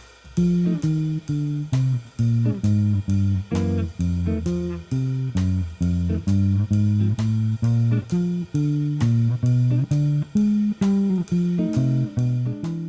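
Outro music: a guitar walking-bass blues in F, with a steady run of plucked notes.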